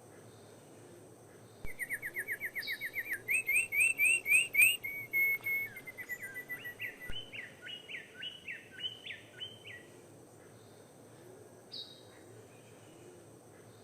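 A songbird singing one long song of fast repeated notes, starting about two seconds in: first a rapid trill, then louder separate rising notes, then a string of quicker notes that fades out about ten seconds in. A couple of short higher calls follow near the end.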